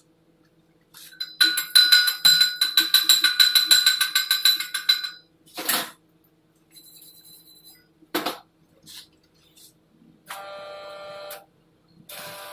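Rapid metal-on-metal strikes on a steel welded pipe for about four seconds, the pipe ringing under them, typical of chipping slag off a weld pass. A few separate knocks follow, and near the end a brief electric buzz starts and stops.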